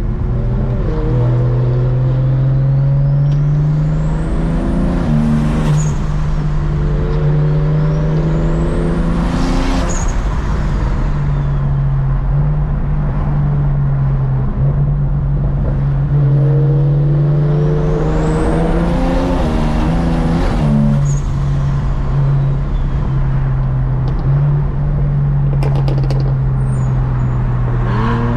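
Turbocharged car engine accelerating hard in three long pulls, its pitch climbing through each with a rising high whistle that peaks and falls away as the throttle comes off, then running steadily between pulls.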